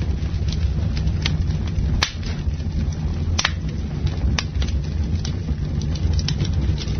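Campfire burning: a steady low rumble of flames with sharp, irregular crackles and pops of burning wood. The loudest pops come about two, three and a half and four and a half seconds in.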